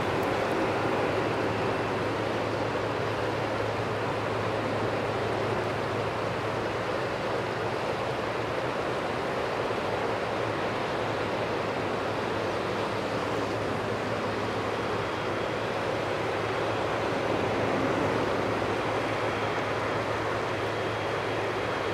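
Steady roar of a Boeing wide-body twinjet's engines, with a faint high whine joining in the second half.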